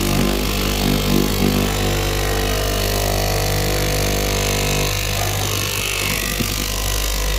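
Electric motor of a garment-making machine humming steadily, with a few louder pulses in the first second and a half.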